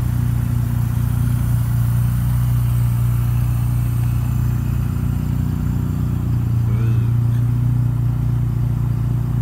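Idling engine of a 2004 Mini Cooper S, its supercharged 1.6-litre four-cylinder, giving a steady low hum.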